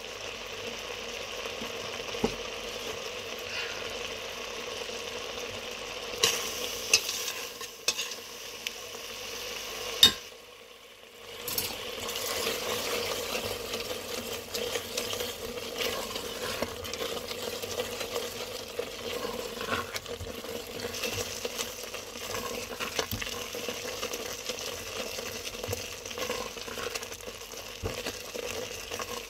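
Grated carrots frying and sizzling in ghee in a metal pot, with a spatula steadily stirring and scraping the pan bottom and a few louder clacks against the pot. This is the bhunai stage of carrot halwa, the sugar's liquid cooking off until the ghee separates. The sound breaks off briefly about ten seconds in.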